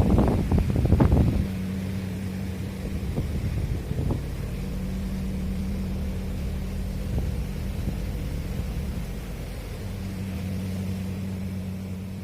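A steady mechanical hum, with a louder stretch of noise in the first second or so.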